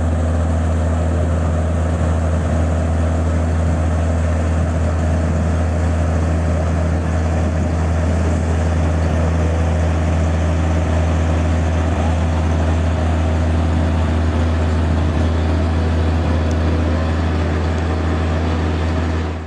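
Heavy truck engine running steadily at idle, a loud, even, low drone with no revving.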